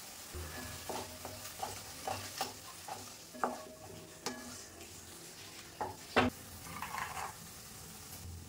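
Onions and tomatoes sizzling in oil in a metal kadai while a wooden spatula stirs them, with repeated scrapes and knocks against the pan; the loudest knock comes a little after six seconds in.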